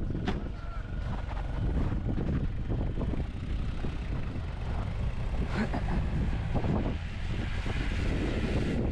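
Strong wind buffeting the microphone in a blizzard, over the steady rumble of a vehicle's engine.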